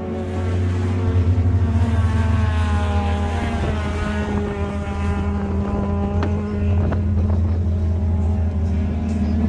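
Car engines running, with a steady low hum and a pitch that slides slowly down partway through, as a vehicle moves past.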